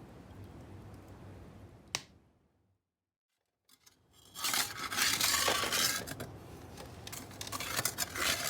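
Faint steady background with a single click, cut off by a gap of silence; then, about four seconds in, a wood fire crackling densely with many sharp snaps.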